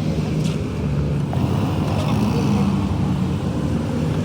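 Tractor engine running steadily, its low note wavering slightly.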